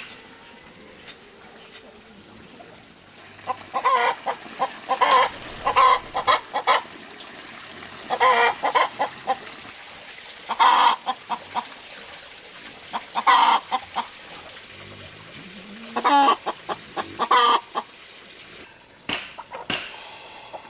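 Chickens clucking and calling in repeated bouts of short calls, about five bouts a few seconds apart.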